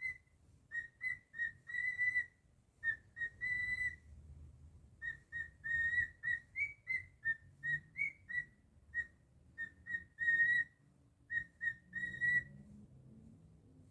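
Cockatiel whistling a song: a string of short whistled notes on nearly the same pitch, some held longer, in phrases with brief pauses, stopping near the end.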